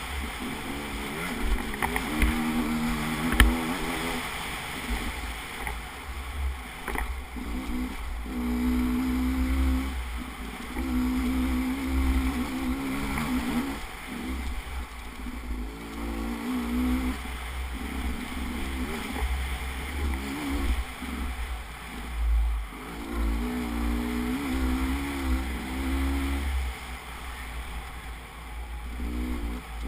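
Motorcycle engine running while being ridden, its pitch rising and falling with the throttle, over a low, uneven rumble.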